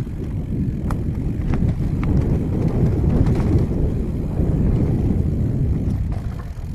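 Mountain bike being ridden along a dirt singletrack: heavy wind rumble on the microphone and tyre noise, with a few sharp clicks and knocks as the bike rattles over bumps and roots.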